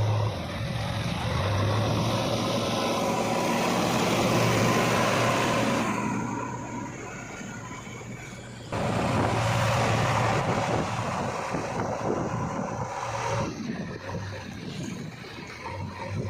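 Heavy diesel machinery engine running under work, steady in its low note, with two long loud, noisy stretches and a quieter spell between them that ends in a sudden jump in level.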